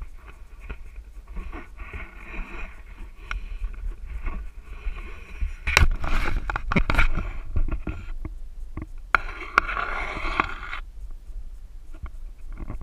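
Steady low rumble aboard a boat, with a burst of knocks and scraping clatter about six to seven seconds in and another noisy stretch near the ten-second mark.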